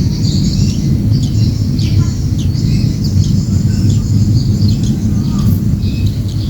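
Cembelek birds chirping with many short, quick high calls, over a steady loud low rumble.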